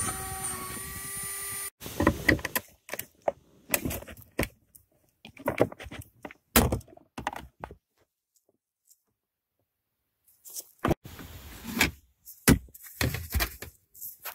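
A steady hum stops abruptly about two seconds in. After it come irregular clicks, taps and knocks of hard plastic parts being handled and fitted, with a quiet gap in the middle, typical of a truck console's cupholder pads being worked into place.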